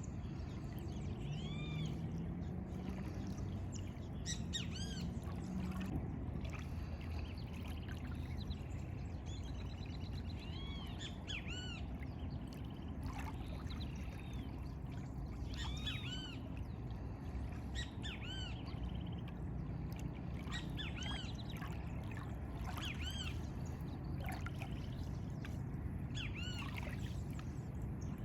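Several birds calling, short arched high-pitched notes repeated every second or two, over a steady low rumble.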